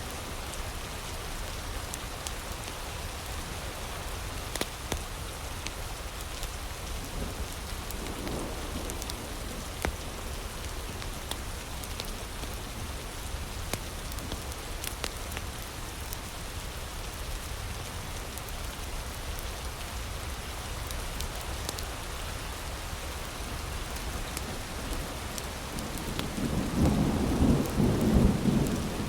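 Heavy rain falling steadily, with scattered sharp crackles from a wood fire. Near the end a low rumble of thunder swells up and becomes the loudest sound.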